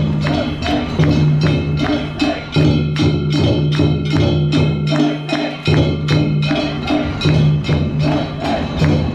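Japanese festival music: fast, even percussion strikes about three or four a second over held pitched tones.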